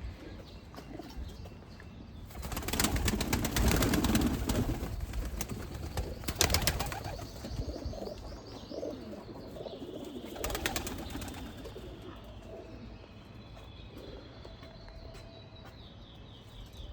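Pigeons' wings flapping in quick clatters as they take off or land: a long flurry about two seconds in, then two shorter ones. Faint chirping of small birds in the second half.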